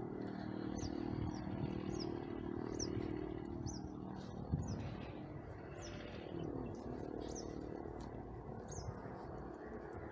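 A bird calling with short, high, rising chirps, about nine of them, one every second or so. Under it, a low steady hum fades out after about three seconds.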